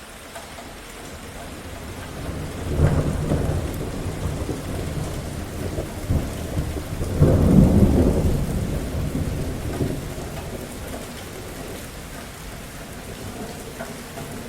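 Steady rain falling, with thunder rumbling twice, about three seconds in and more loudly around seven to eight seconds in, then dying away under the rain.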